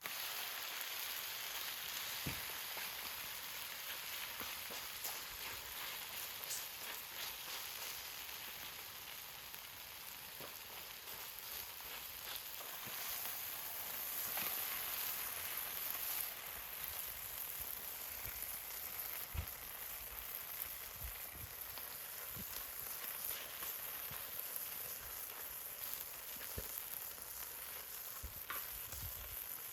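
Seafood green-onion pancake frying in oil on a cauldron lid over a wood fire: a steady sizzle with scattered small pops.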